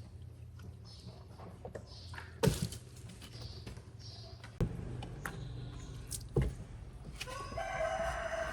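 Three sharp knocks about two seconds apart, like wood or a hull being struck, over a low hum. Near the end a rooster starts crowing.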